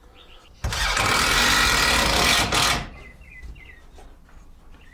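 A motor runs loud and steady for about two seconds, starting and stopping abruptly. Short bird chirps follow in the quieter second half.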